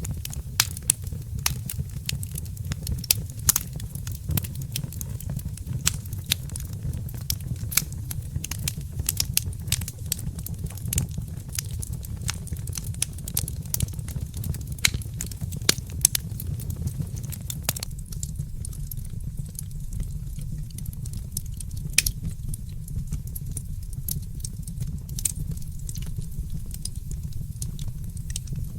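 Wood fire crackling in a fireplace: irregular sharp pops and snaps over a steady low rumble. The pops come thick and fast at first and thin out about two-thirds of the way in.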